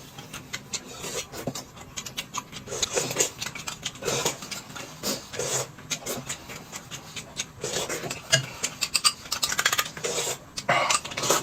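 Someone eating close to the microphone: chewing and handling food, with many short clicks and rasping scrapes.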